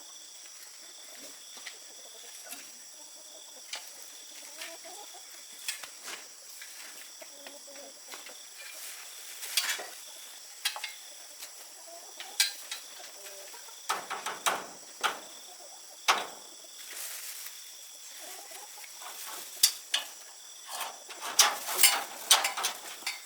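Irregular sharp knocks, a few at first and coming thick and fast near the end, over a faint steady high-pitched tone.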